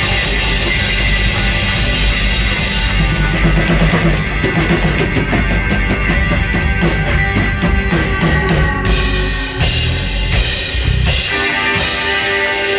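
Live band playing a loud instrumental passage on drum kit and guitar, with a run of quick, evenly spaced drum hits through the middle.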